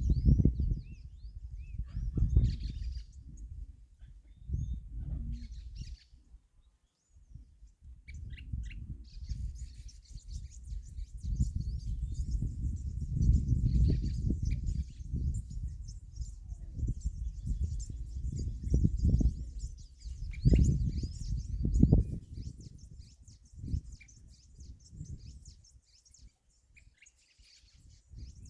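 Small songbirds chirping and trilling in many quick, high notes, busiest in the middle stretch. Under them is a loud, low, gusty rumble that swells and fades.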